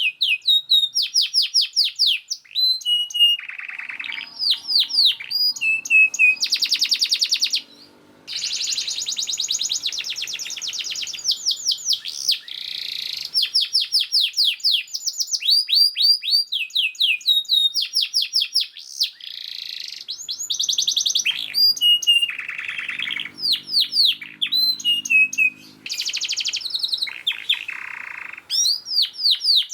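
Canary singing a fast, dense song: quick runs of repeated falling high notes alternating with rapid rolling trills, with barely a break.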